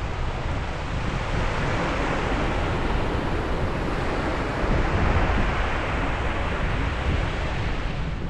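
Sea waves breaking and washing up on a beach, one wash swelling and fading in the middle, with wind rumbling on the microphone.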